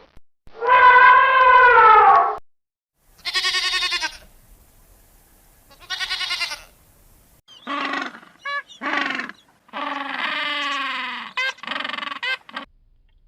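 A series of bleats from farm livestock. A long call falls in pitch near the start, two shorter quavering bleats follow with pauses between them, and several bleats come in quick, overlapping succession in the second half.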